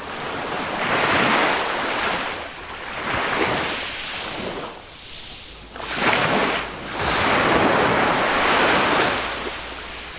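Small waves of a calm sea breaking and washing up on a sandy beach, the surf rising and falling in several surges, the loudest about six to nine seconds in, with some wind on the microphone.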